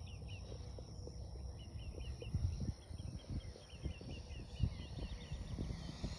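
Small birds chirping in quick repeated series of short notes, over a low rumbling noise on the microphone.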